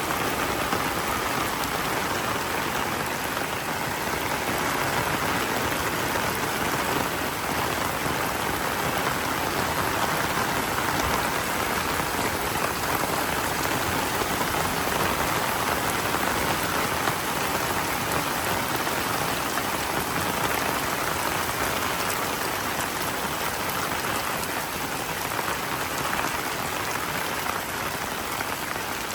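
Heavy monsoon rain falling steadily, a dense even hiss of drops on surfaces.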